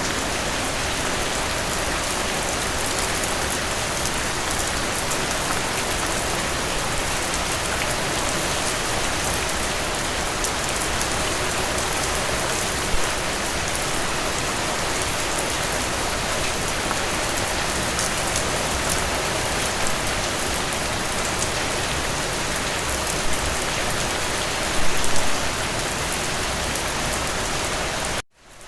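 Steady rain falling, an even hiss with a few louder drops standing out. Near the end the sound cuts out suddenly and fades back in.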